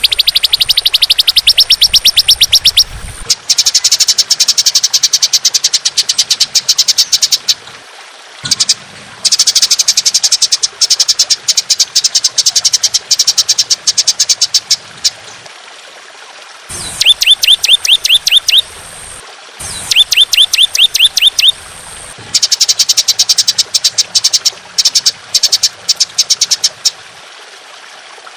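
Songbird song from a masteran (training) recording: bouts of very fast, high-pitched repeated notes, each lasting a few seconds with short pauses between. Twice near the middle the bouts change to quick rising sweeping notes.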